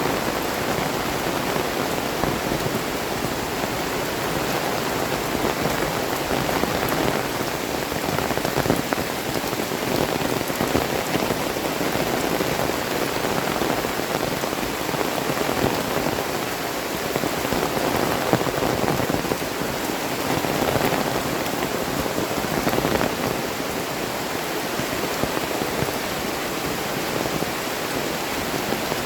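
Heavy tropical rain falling steadily, with countless drops pattering on surfaces close by.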